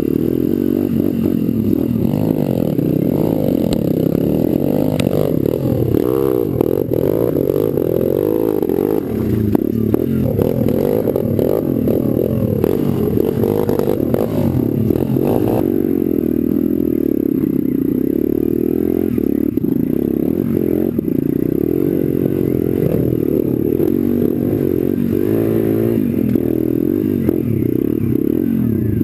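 Pit bike engine, recorded close by an onboard GoPro, revving up and down with the throttle as the bike is ridden off-road. Frequent knocks and rattles run through it.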